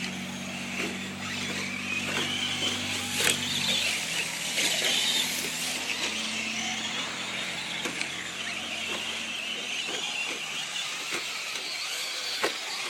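Traxxas electric RC short course trucks racing, their motors whining up and down in pitch as they speed up and slow down, with a few sharp clicks. A low steady hum lies under them for the first four seconds.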